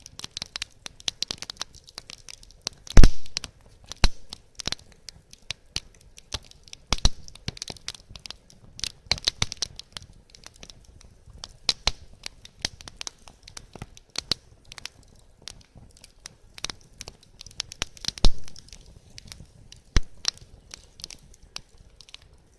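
Wood fire crackling, with irregular sharp snaps and pops from the burning logs. Two louder pops stand out, about three seconds in and again near eighteen seconds.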